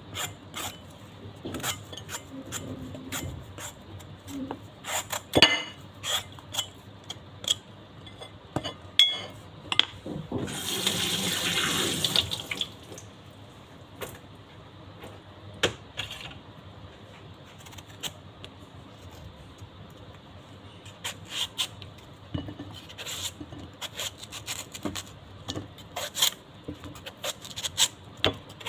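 Close-up eating sounds of mango with shrimp paste: scattered crisp bites, crunches and mouth clicks. About ten seconds in, a louder rush of noise lasts roughly two seconds.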